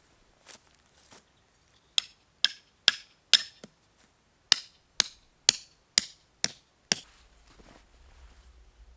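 Sharp hammer-like tool strikes with a short ring after each: four blows about two a second, a pause of about a second, then six more at the same pace.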